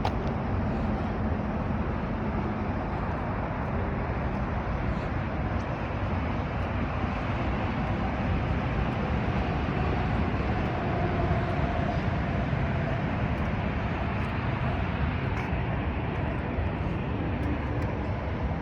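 Steady vehicle running noise, a continuous rumble and rush with no distinct events.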